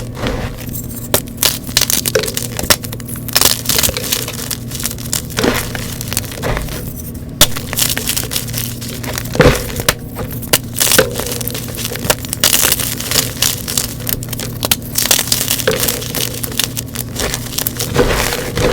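Blocks of gym chalk being crushed and crumbled close to the microphone: a dense run of irregular crunching and sharp cracks, with a few louder snaps, over a steady low hum.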